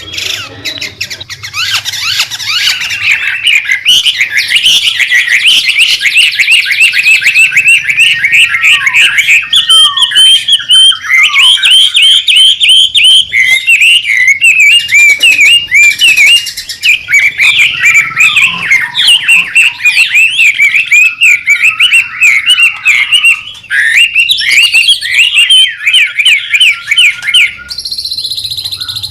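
White-rumped shama singing a loud, fast, busy song: an unbroken run of quick rising and falling whistled and chattering notes, with the phrasing changing near the end.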